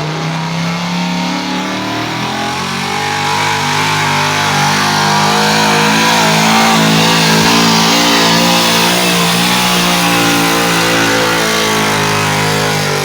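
Truck-pull truck's engine held at high, nearly steady revs, growing louder over the first several seconds and easing off a little near the end.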